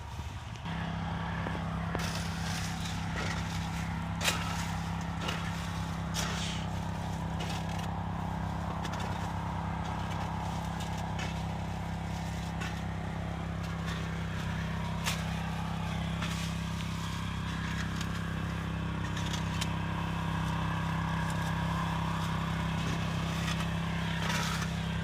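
Small engine of a mini tractor rotavator running steadily at an even speed, coming in sharply about half a second in. Scattered sharp clicks sound over it.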